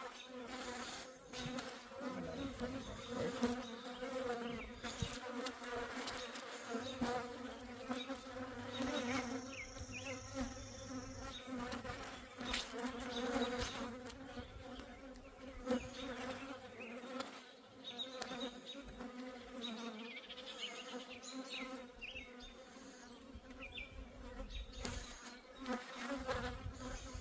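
Honeybees buzzing around an open hive and a frame lifted out of it, a steady low hum with overtones, with occasional light clicks.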